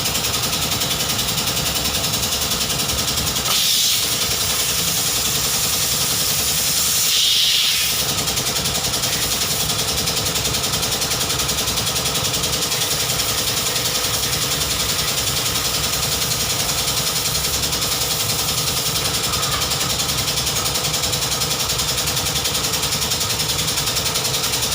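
BMW 320i engine idling steadily, with two short louder hisses, about three and a half and seven seconds in.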